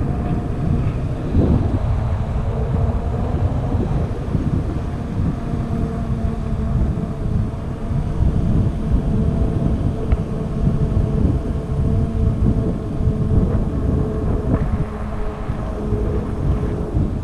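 Wind buffeting the microphone of a camera on a moving e-bike, with a steady hum underneath.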